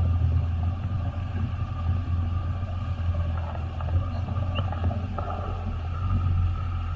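Jet ski engine running steadily with a low drone.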